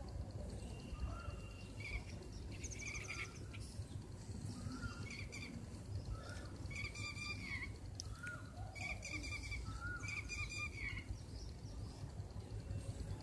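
Birds calling, short pitched calls repeating about once a second, some with a slight downward slide, over a steady low background rumble.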